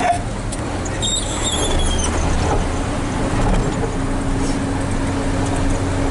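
Hino 500 FM320TI truck's diesel engine running steadily, heard from inside the cab with road noise. A brief high, falling squeal comes about a second in.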